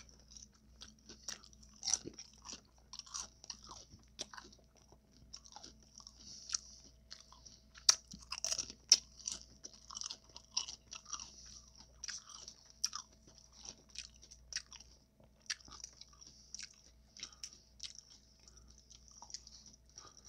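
Close-miked chewing of tacos: wet mouth sounds with many irregular crunches, the sharpest about eight to nine seconds in.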